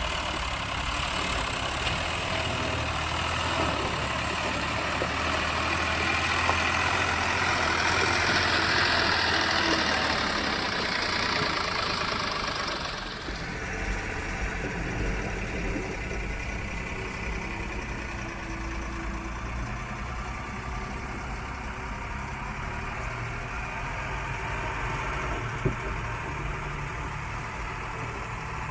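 Swaraj tractor diesel engine running, louder and noisier for about the first half, then settling to a quieter steady running sound.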